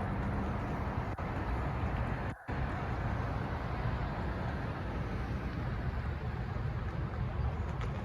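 Freight cars of a manifest train rolling past at a grade crossing: a steady low rumble with rail and wheel noise. The sound cuts out briefly about two and a half seconds in.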